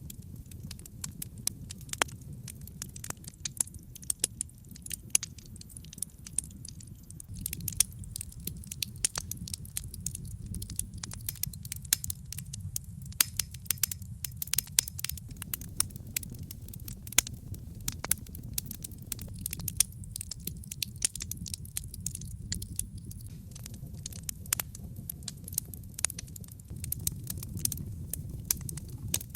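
Wood fire in a brick fireplace burning steadily: dense, irregular crackling and sharp snaps from the burning logs over a soft low rumble of the flames.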